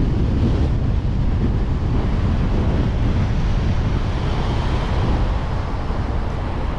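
Wind buffeting a GoPro Hero 8's microphone: a dense, steady low rumble with no clear engine note.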